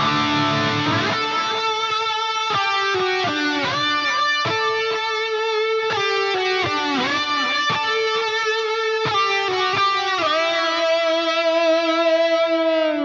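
Electric guitar played through a Line 6 Helix crunch preset: a passage of single notes with pitch bends, ending on a long held note.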